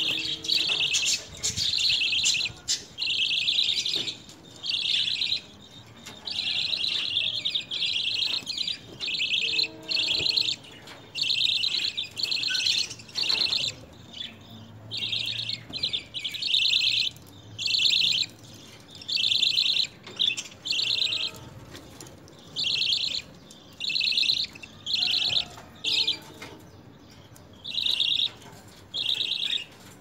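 Small caged birds chirping in rapid, high-pitched bursts of about a second each, one after another with short gaps between them.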